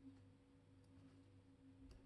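Near silence: room tone with a faint steady hum and a few very faint small clicks.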